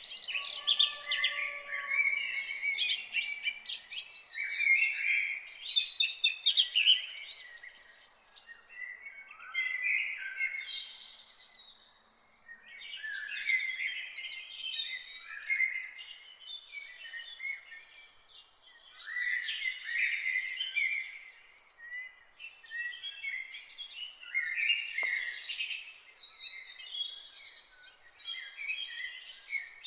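Several songbirds chirping and singing at once in a morning chorus. Short high calls and trills overlap with one another, thinning briefly now and then.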